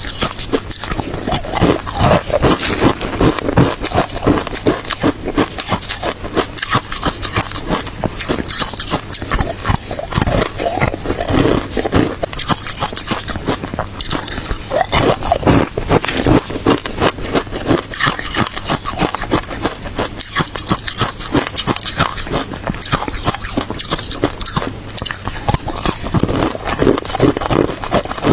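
Crunchy shaved ice being bitten and chewed close to the microphone: a continuous run of crisp cracks and crunches, with louder bites every fraction of a second.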